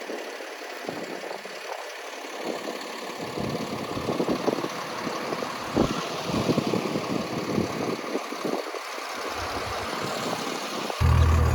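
Salt truck idling while snow is cleared off it, with irregular scrapes and knocks; a louder low engine drone comes in near the end.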